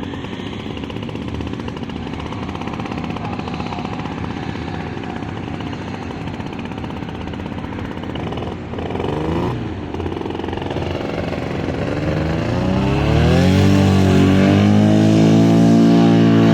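Radio-controlled model airplane engine in flight, a steady buzzing drone whose pitch swings briefly about nine seconds in and which grows louder from about thirteen seconds as the plane comes closer.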